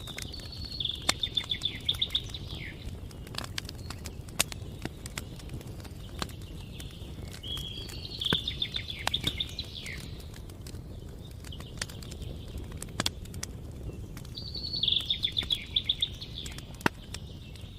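A campfire crackling, with sharp pops from the burning wood over a steady low rumble. A small songbird sings a short phrase of rapid repeated notes three times, about six to seven seconds apart.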